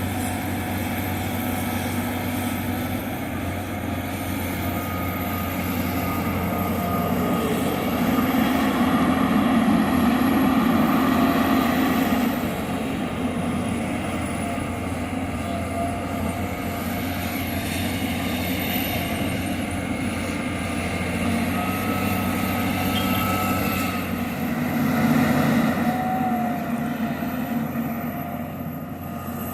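John Deere 350G LC hydraulic excavator running steadily while it works, its diesel engine swelling louder twice as the hydraulics take load, once for several seconds near the middle and again briefly near the end.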